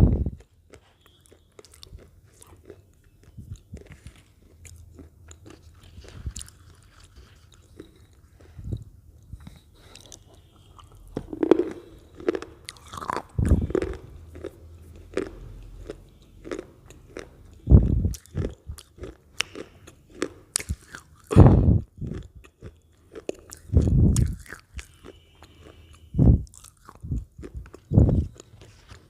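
Close-up ASMR eating: a person biting and chewing Lay's potato chips, with irregular crisp crunches, several louder bites in the second half.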